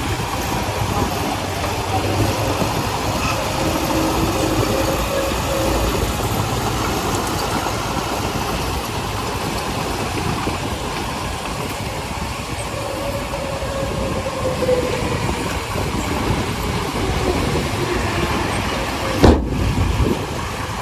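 Diesel engine of heavy earthmoving machinery running steadily under work, with faint squealing that rises and falls, and a sudden sharp thump near the end.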